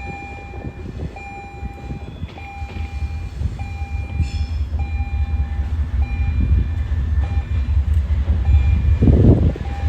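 Diesel-led freight train approaching, its low rumble growing louder. A warning bell rings in a steady repeating rhythm over it, and a brief louder burst comes near the end.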